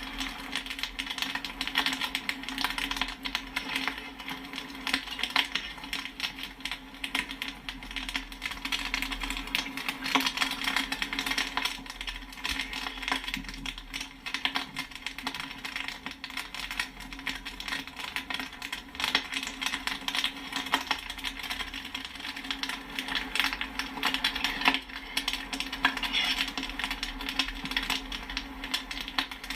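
Popcorn kernels popping in a dense, irregular run of many quick pops, with a steady low hum underneath.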